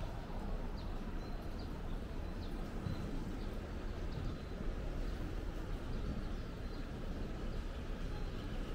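Small birds chirping in short, high notes at irregular intervals over a steady low outdoor rumble.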